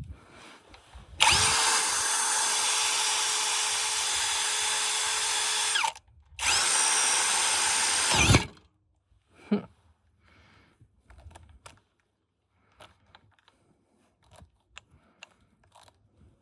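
Handheld electric power tool motor running at steady speed in two bursts, the first about four and a half seconds and the second about two. Each burst winds up in pitch at the start and down at the stop. Faint clicks and handling sounds follow.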